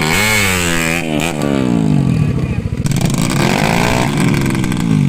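Motorcycle engine being revved repeatedly, its pitch rising and falling in several blips, with a longer rise and fall a little past the middle.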